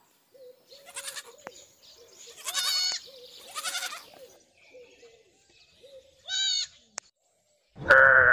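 Goats bleating: about four short, wavering calls, then a much louder, longer bleat starting near the end.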